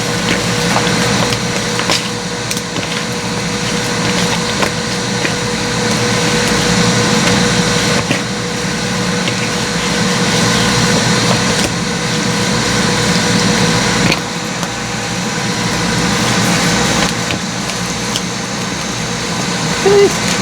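Air fryer preheating, its fan motor running with a steady whir and hum.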